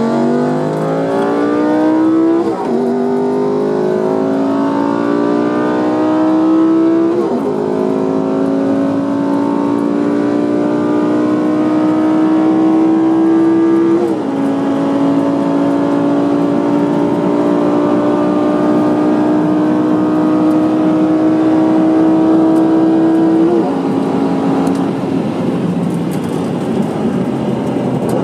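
Car engine accelerating hard through the gears, heard from inside the cabin: its pitch climbs steadily in each gear and drops at four upshifts, each gear held longer than the last.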